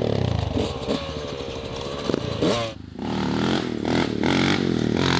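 Dirt bike engine running on the throttle, easing off with falling revs about a second in, dropping out briefly just before the middle of the clip, then revving back up.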